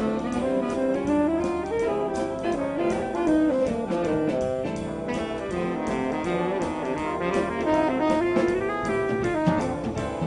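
Instrumental jazz-band music: brass and saxophones play a moving melody over a drum kit, without pause.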